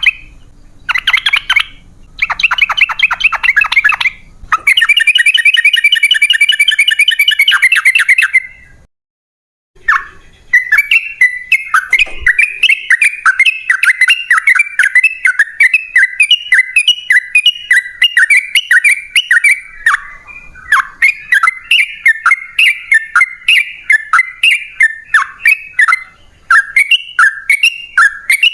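Yellow-vented bulbul (trucukan) calling. It gives short rattling trills, then one longer trill. After a brief pause it launches into a long run of rapid chattering notes.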